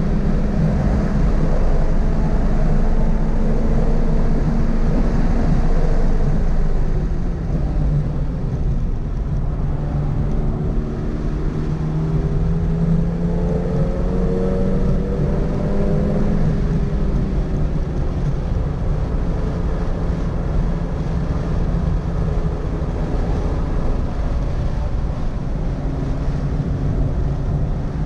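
Toyota GR86's 2.4-litre flat-four engine under hard track driving, its pitch climbing and falling as the car accelerates and slows. It eases off about a quarter of the way in, pulls up again midway, and eases off once more, over steady road noise.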